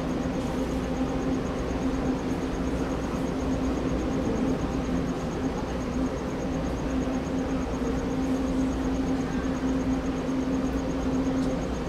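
Steady low drone of a passenger train pulling slowly away, with a constant hum-like tone under it.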